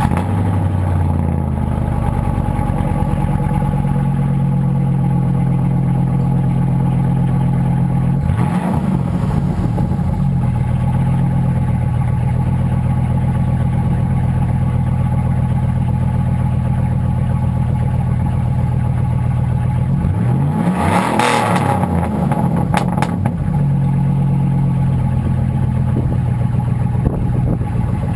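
Chevy Silverado Z71 V8 idling through a cat-back dual exhaust with a deep, steady burble. It is blipped briefly about eight seconds in and revved harder around twenty seconds in, then settles back to idle.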